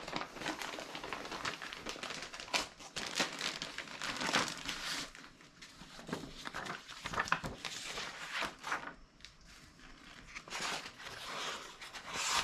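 Paper pages rustling and crinkling as a printed document is handled and leafed through, in short irregular strokes.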